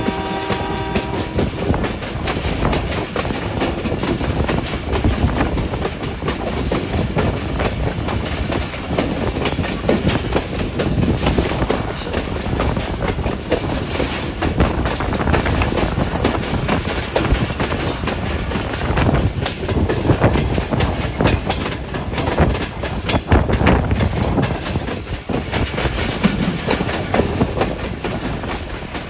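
Hazara Express passenger train running on the rails: a steady loud rumble with the rapid clickety-clack of wheels over rail joints. A steady pitched tone, such as a horn, stops about a second in.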